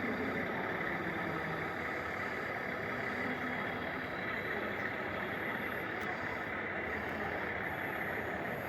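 Steady engine idling from a 1:14-scale RC truck's sound unit, with a faint murmur of voices behind it.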